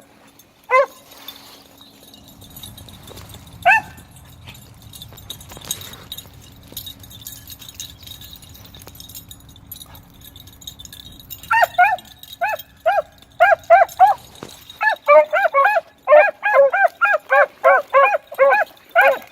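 Beagles baying on a rabbit trail: two single bays early on, then from about twelve seconds in a fast, steady string of bays, about three a second.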